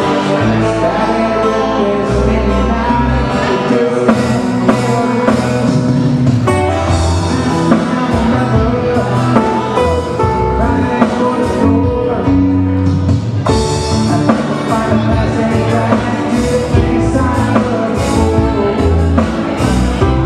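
Live band music, Hawaiian style, with a stepping bass line and plucked guitar.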